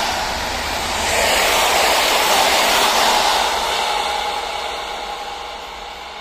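Coaches of an Intercity passenger train running past on the rails, a steady rush of wheel and rail noise. It begins to fade about halfway through as the last coach pulls away.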